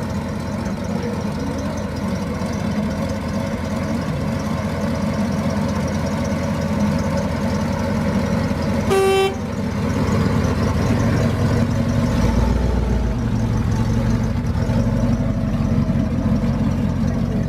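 1974 Chevrolet Monte Carlo's 454 (7.4-litre) V8 idling steadily, with one short car horn toot about halfway through.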